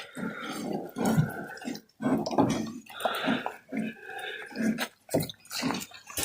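Pigs grunting: a string of short, uneven grunts.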